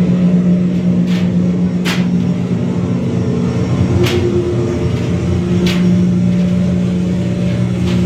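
Steady, loud engine-room machinery drone from a warship museum's interactive exhibit, a low hum with a few sharp clicks or clanks scattered through it.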